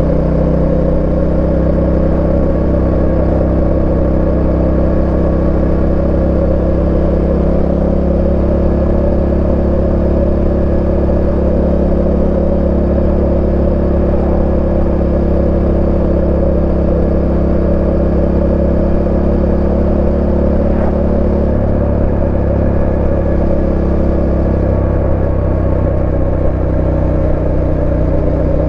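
Yamaha Tenere 700's 689 cc parallel-twin engine running at a fairly steady speed while the bike cruises, with wind and road noise. The engine pitch stays nearly constant, with only slight changes in throttle.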